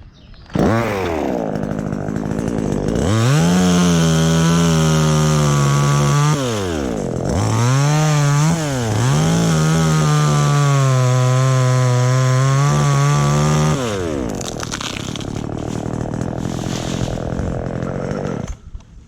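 Chainsaw starting up and running at high revs cutting into an anjili tree trunk, with two brief dips in speed about halfway through. It then slows to a lower speed near the end before cutting off.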